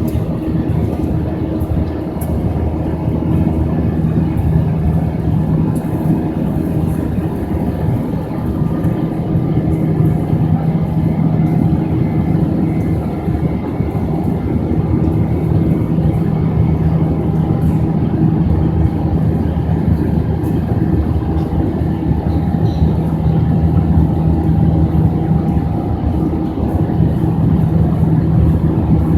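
Airbus A320 jet engines heard from inside the passenger cabin, a steady loud drone with a constant low hum over a rushing noise.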